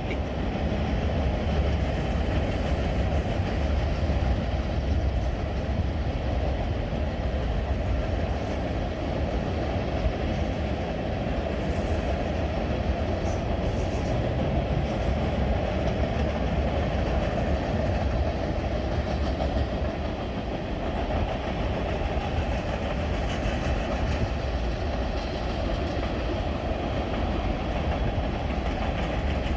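Freight train cars rolling past at steady speed, steel wheels running on the rails with a continuous low rumble. The wheels seem to be pounding over flat spots.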